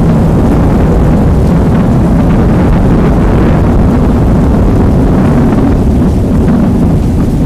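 Loud, heavily bass-boosted rain recording: a steady deep rumble under a dense rain hiss, with no separate claps.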